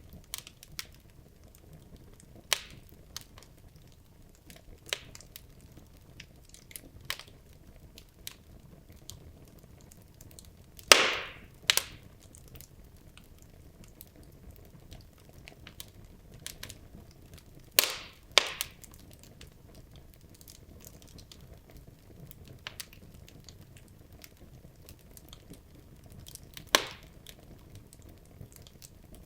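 Wood fire in a fireplace, burning logs crackling and popping at irregular intervals over a low steady hiss, with a few sharper, louder pops about 11, 18 and 27 seconds in.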